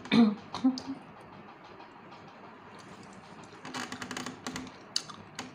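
A person chewing fish close to the microphone: soft wet mouth clicks and smacks, with a quick run of clicks over a low hummed "mm" a little past the middle and two sharp smacks near the end.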